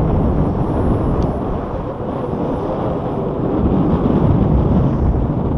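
Wind buffeting the microphone, a loud gusting rumble, with the faint high steady whine of the model airliner's twin 40mm electric ducted fans drifting slightly lower.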